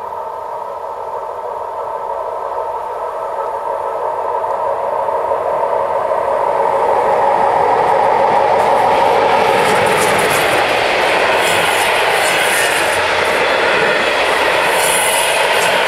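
Level crossing bells ring steadily while an SJ intercity train approaches, growing louder. From about nine seconds in, its coaches pass close by with a loud rolling rumble and the clatter of wheels.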